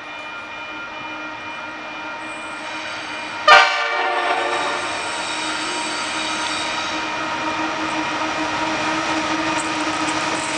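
Approaching diesel freight train: steady locomotive engine drone, with a short, sudden horn blast about three and a half seconds in, after which the engines stay louder as the train draws near.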